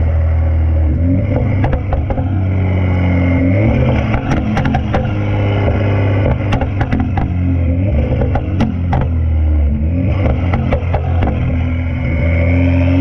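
Straight-piped BMW 335i's N55 turbocharged inline-six, with catless downpipe and resonator and muffler deletes, running loud under way with a deep exhaust drone that steps up and down in pitch a few times. Clusters of sharp crackles sound in several places.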